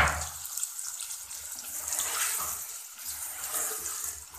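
Chopped fresh turmeric root, onion and tomatoes sizzling in a steel pan, stirred with a spatula that scrapes against the pan.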